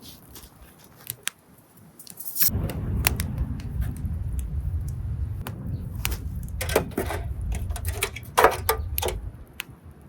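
A run of light clicks and clinks from things being handled, the loudest clusters near the middle and toward the end, over a low rumble that starts about two and a half seconds in.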